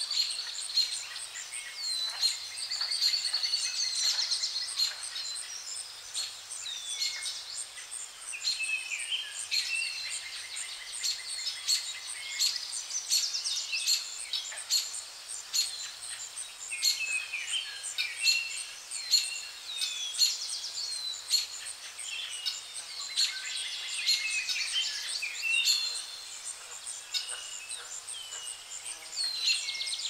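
Several songbirds singing and calling at once: a dense, continuous mix of overlapping chirps, trills and sweeping whistles, over a soft steady hiss of outdoor background.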